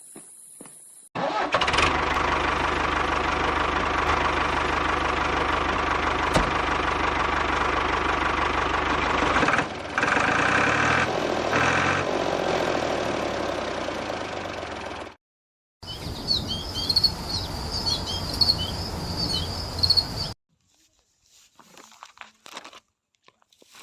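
A small engine running steadily, starting abruptly about a second in and stopping about fifteen seconds in. After a short break it runs again for a few seconds with birds chirping over it.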